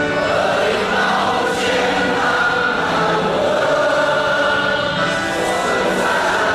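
Many voices singing together in a choir, holding long notes that change pitch about once a second.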